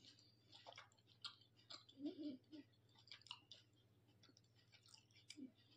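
Faint chewing: a scatter of soft mouth clicks and smacks as a mouthful of rice dumpling with fish curry is chewed with the mouth closed.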